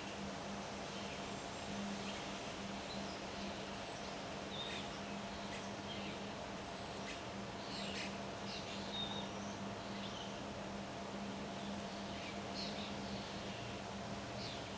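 Birds chirping in short scattered calls over a steady outdoor background hiss and a constant low hum.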